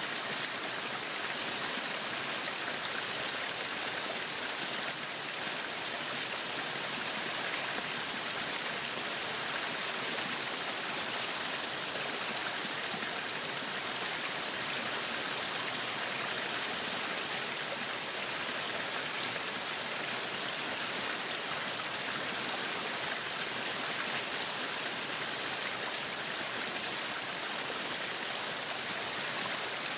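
Meat sizzling on a yakiniku grill, a steady hiss that does not let up.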